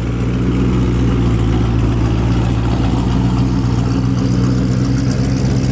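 Twin-turbo Ford Mustang's engine idling steadily, with a low, even note.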